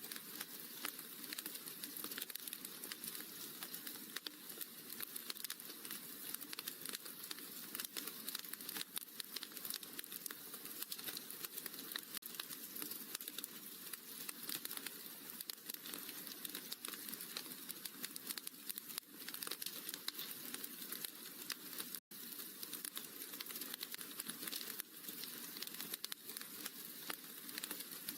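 Wood fire crackling in a fireplace: a steady bed of dense, irregular small pops and snaps. The sound cuts out for an instant about 22 seconds in.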